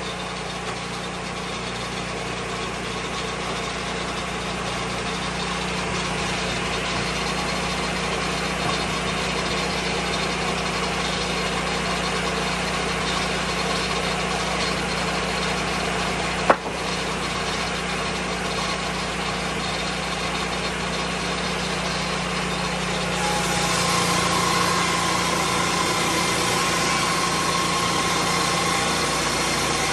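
Lucas Mill 10-30 swing-blade sawmill running steadily while milling white pine, its engine and circular blade making a continuous drone. There is one sharp click a little past halfway, and the sound grows a little louder and brighter about three-quarters of the way through.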